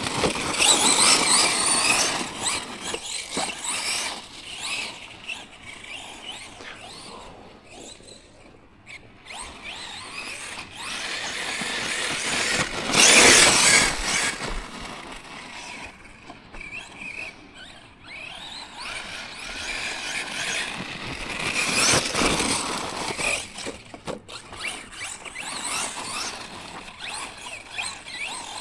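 Tekno MT410 2.0 1/10-scale electric RC monster truck being driven, its motor and drivetrain whining high and rising and falling with the throttle, loudest about thirteen seconds in.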